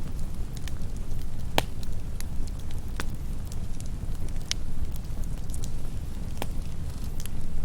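Campfire crackling, with a steady low rumble and scattered sharp pops; the loudest come about a second and a half in, at three seconds, four and a half seconds and six and a half seconds.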